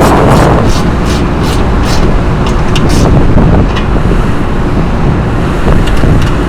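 Loren Cook 100 ACEM centrifugal roof exhauster running after its new motor is fitted: a loud, steady rush of air with a deep rumble and scattered light ticks.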